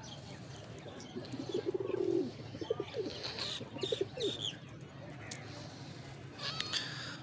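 Pigeons cooing: a drawn-out coo about a second and a half in, followed by a run of short, falling coos. Higher chirps come in the middle and again near the end.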